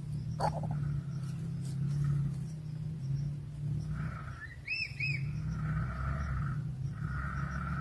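Nestling birds calling in the nest: a steady low drone with rasping begging calls about a second long that come again and again, and two short arched chirps about five seconds in.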